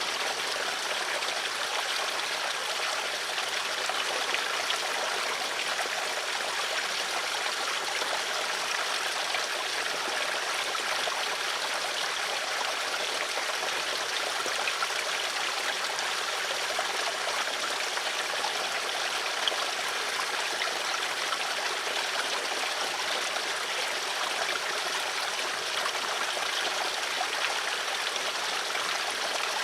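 Steady flowing water, a stream burbling continuously without change.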